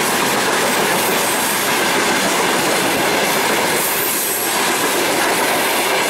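Freight train of tank cars and open wagons rolling past close by: a steady, loud clatter and rumble of wheels on the rails, with a faint high wheel squeal about four seconds in.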